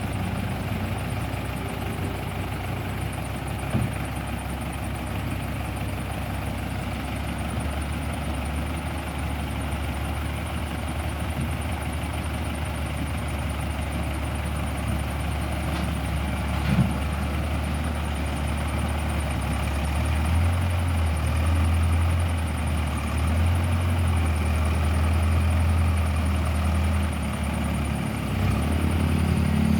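Diesel engine of a compact wheel loader running steadily under work, its low drone growing louder about twenty seconds in. A single short knock about seventeen seconds in.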